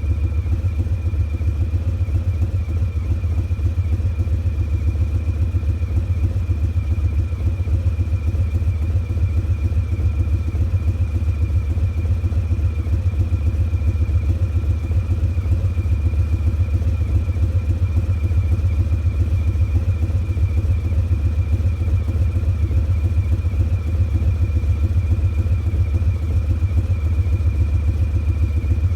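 Harley-Davidson Breakout's Milwaukee-Eight 114 V-twin idling steadily through Vance & Hines Eliminator 300 slip-on mufflers, a deep, evenly pulsing exhaust rumble with no revving.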